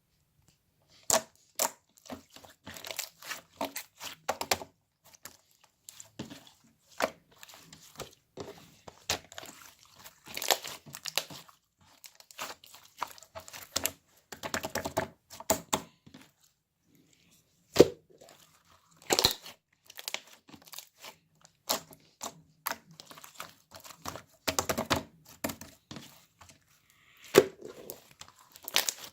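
Close-up handling noises: irregular crinkling and tearing with sharp clicks and taps, coming in short bursts with brief pauses.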